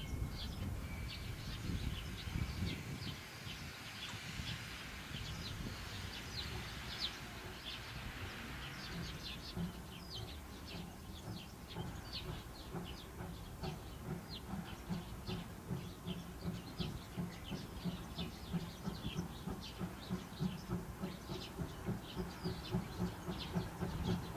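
C11 steam locomotive moving slowly, with a low beat about twice a second that grows stronger in the second half. Many short, high chirps or ticks run throughout.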